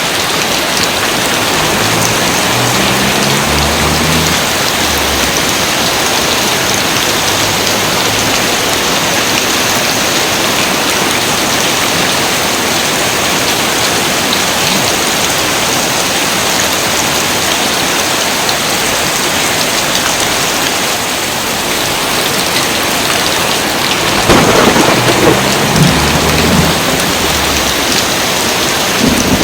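Steady heavy rain falling. Low thunder rumbles twice, faintly a few seconds in and louder about 24 seconds in.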